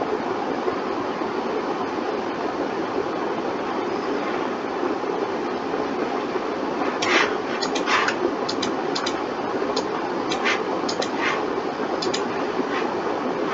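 Steady hum of a computer or room fan, with a scatter of sharp computer keyboard and mouse clicks starting about seven seconds in.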